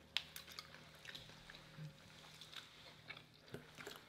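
Faint chewing of a crispy fried chicken sandwich: scattered soft crunches and mouth clicks at an uneven pace.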